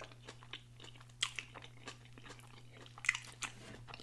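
Close-miked mouth sounds of someone chewing a cheeseburger wrapped in griddled onion: soft, irregular wet smacks and clicks, with two louder ones about a second in and near the end, over a faint steady low hum.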